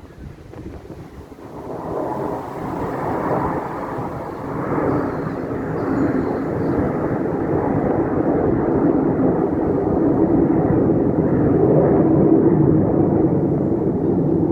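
Airplane engine noise swelling from about two seconds in and staying loud, as an aircraft flies past.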